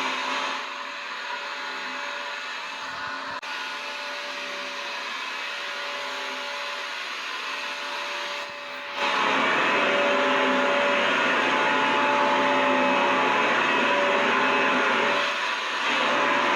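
Vacuum cleaner motor running steadily: a dense whooshing hum with a steady whine through it. It turns quieter and thinner from about half a second in, comes back to full strength about nine seconds in, and dips briefly near the end.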